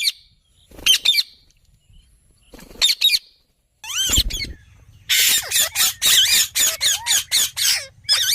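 Indian ringneck parakeet squawking: a few single shrill calls spaced about a second apart, then from about five seconds in a fast run of repeated squawks, roughly four a second.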